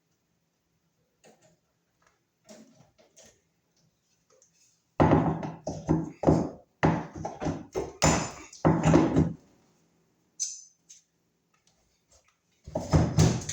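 Sheetrock being broken and pulled off a wall: a few faint knocks, then from about five seconds in a run of loud crunching thuds and knocks, with another burst near the end.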